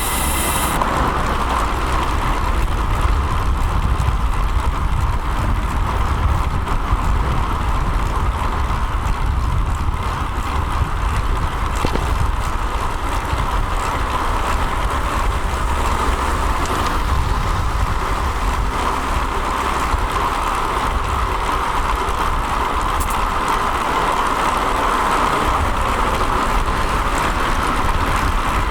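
Steady rush of wind and rolling road noise picked up by an action camera mounted on a road bike riding along a street at night, with passing traffic.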